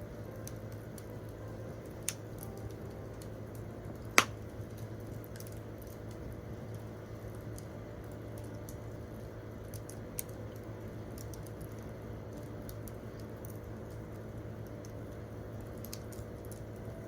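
Wood campfire crackling with scattered small ticks, and one sharp, loud pop about four seconds in.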